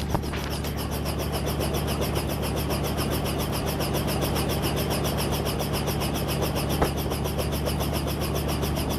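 Helicopter running steadily, a deep engine hum under a high hiss that pulses fast and evenly with the rotor. Two short clicks, one just after the start and one about seven seconds in.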